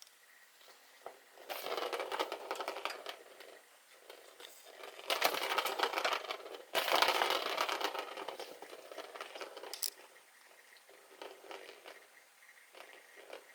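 Crinkling and rustling of crinkly material in three bursts of a couple of seconds each, with small scrapes and ticks in between.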